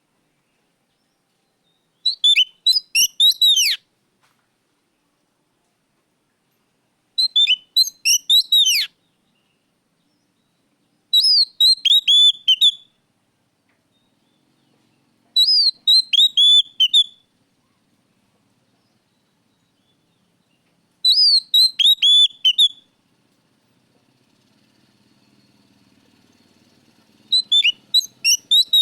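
Oriental magpie-robin (kacer) song: six short, loud phrases of rapid high whistled notes that swoop downward, each about two seconds long, separated by gaps of a few seconds. A faint low hum comes in near the end.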